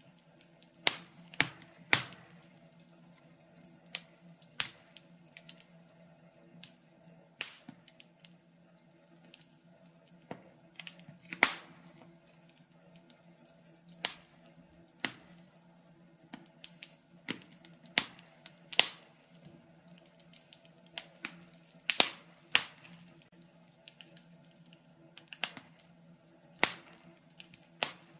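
Wood fire in a fireplace crackling: irregular sharp pops and snaps, a few much louder than the rest, over a faint steady hum.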